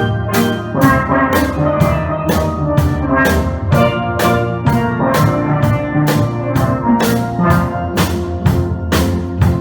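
Steel band playing: several steelpans ringing out melody and chords over a drum kit that keeps a steady beat of about two strokes a second.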